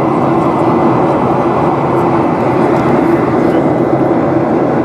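Steady cabin noise of a Boeing 737-800 in flight: the drone of the jet engines and rushing air, with a low, even hum.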